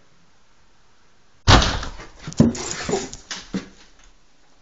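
A sudden loud hit about a second and a half in, as a rake strikes a large wasp nest. It is followed by about two seconds of scuffling and clattering with short yelping cries as the man runs off.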